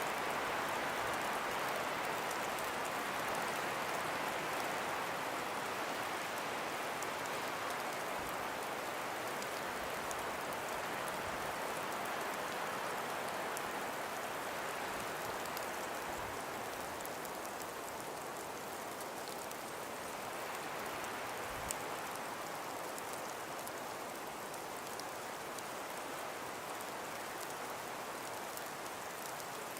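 Calm winter wind blowing steadily through frost- and ice-covered forest trees, a soft even hiss that eases a little past the middle and then swells again.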